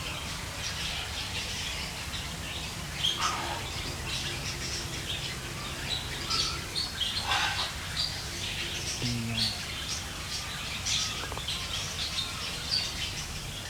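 Small birds chirping repeatedly, with many short high calls overlapping throughout, over a steady low background hum.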